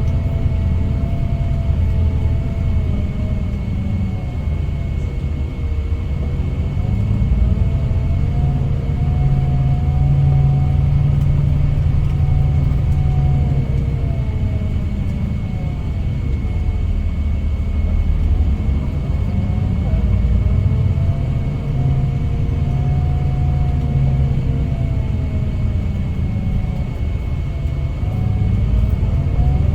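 Scania K410IB coach's engine running under way, a deep rumble whose pitch rises and falls several times, with a steady thin high whine underneath.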